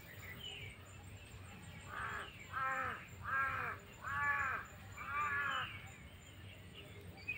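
A bird calling five times in quick succession, each call about half a second long and slightly falling in pitch; the first call is the faintest.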